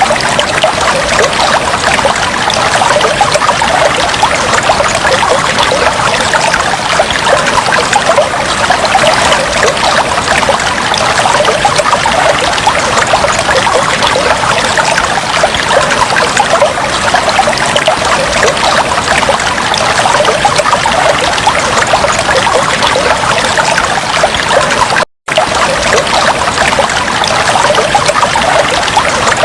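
Fish tank water trickling steadily, a dense continuous patter. It cuts out for a split second near the end.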